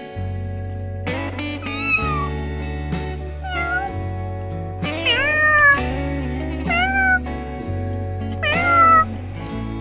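A domestic cat meowing about five times, each meow a short call that bends in pitch, over background music with steady bass notes.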